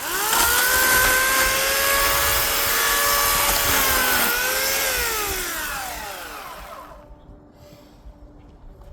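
Electric chainsaw spinning up to a steady high whine and cutting wood; a little past four seconds in the pitch dips, then the motor winds down with a falling whine and stops about seven seconds in.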